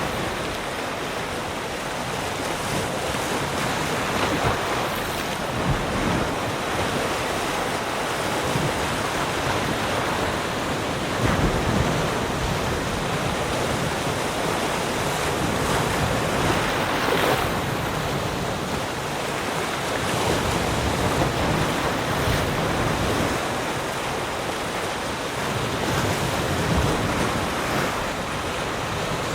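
Ocean surf washing onto a shore: a continuous rushing of waves that swells and eases, with a few stronger surges.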